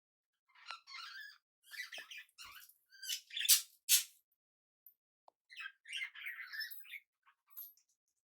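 Pet budgies and a cockatiel chattering and squawking in bursts, with two sharp, loud calls about halfway through.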